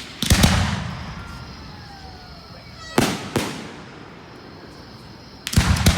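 Aerial fireworks bursting: a quick cluster of bangs near the start, two sharp bangs about three seconds in, and another cluster near the end, each trailing off into a rumbling echo.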